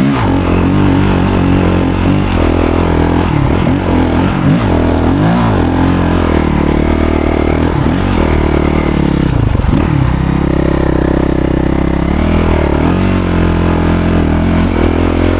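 Motorcycle engine running under way, its revs rising and falling again and again as the throttle is worked, with some clatter.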